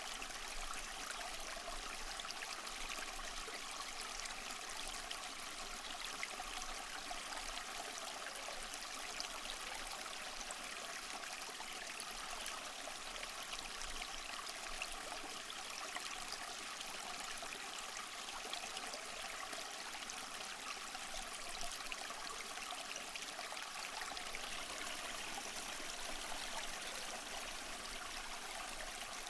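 Small waterfall splashing and trickling over mossy rocks, a steady, even rush of water.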